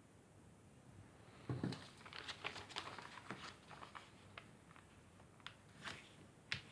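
Junk-mail paper rustling and crinkling as it is handled, in a string of sharp crackles starting about a second and a half in.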